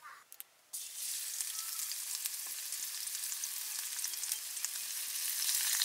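Chopped vegetables dropped into hot oil in an iron wok, sizzling steadily with fine crackles from just under a second in.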